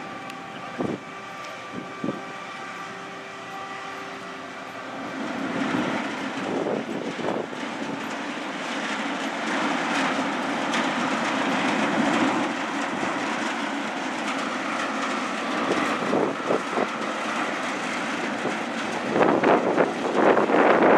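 Ferry machinery running with a steady hum, broken by a few clanks and knocks. Wind buffets the microphone near the end.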